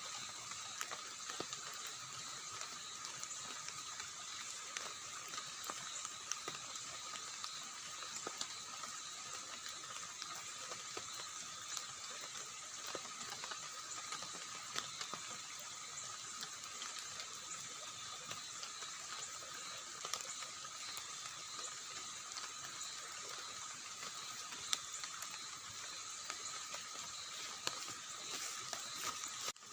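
Steady rushing water, with a few steady high-pitched tones running over it and scattered light ticks.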